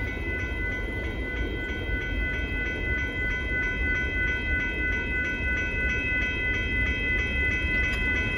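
Union Pacific grain train's freight cars rolling past a grade crossing with a steady low rumble, while the crossing's warning bell rings steadily over it.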